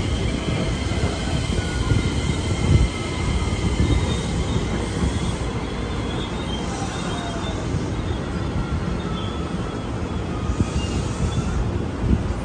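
JR West 225-series electric train rolling slowly out of the station: a steady low rumble of wheels on rail, with thin high squealing tones from the wheels and one louder knock about three seconds in.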